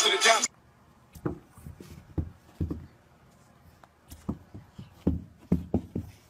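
Irregular soft thuds and scuffs of a dog scrambling and bounding about on a carpeted floor, in a small room. Hip-hop music cuts off sharply about half a second in.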